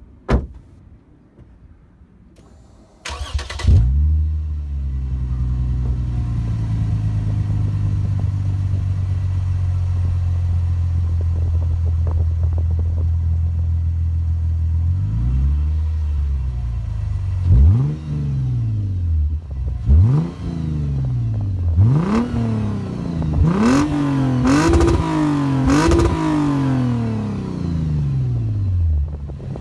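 Lexus IS 300 with its mufflers removed (muffler delete) starting up about three seconds in, idling steadily, then revved in a series of quick blips, several in close succession near the end, before dropping back to idle. The open exhaust makes it loud.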